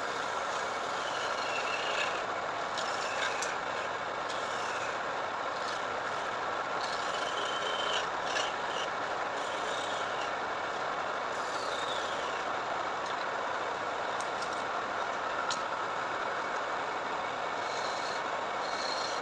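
A machine running steadily with an even hissing whir.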